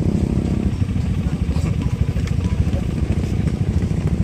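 Motorcycle engine running at idle, with rapid, even firing pulses. A louder, higher-revving engine sound dies away in the first second.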